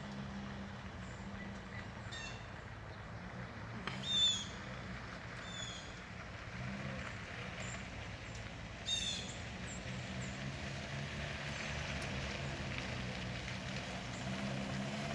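A bird gives four short chirping calls, the loudest about four seconds in, over a steady low hum.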